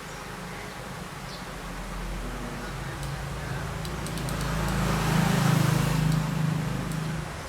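A motor vehicle engine running nearby, growing louder about halfway through and dropping away near the end, as if passing by.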